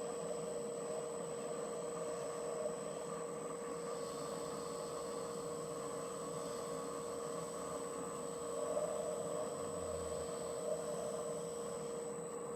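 Metal lathe running steadily with a constant whine, spinning the steel crankshaft while it is polished with emery cloth.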